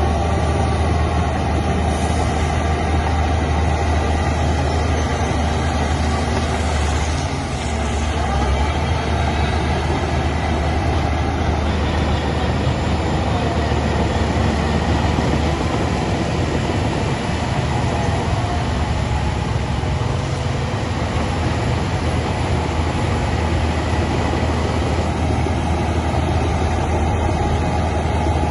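Heavy diesel engine of earthmoving machinery running steadily under work, with a deep low rumble and a brief dip in level about seven seconds in.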